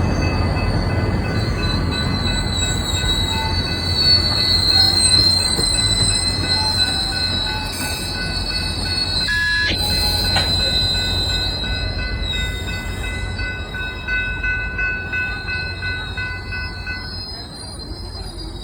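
Train rolling past with its steel wheels squealing on the rails: a high, wavering squeal and several steady high tones over a low rumble, growing quieter over the last few seconds.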